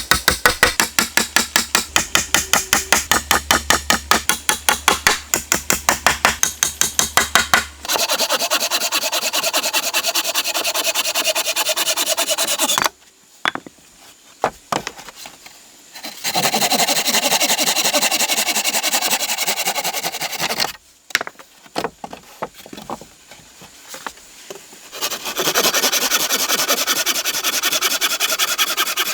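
Rubbing and scraping on wood: fast, even strokes at about five a second for the first eight seconds, then longer continuous rubbing that stops and starts twice.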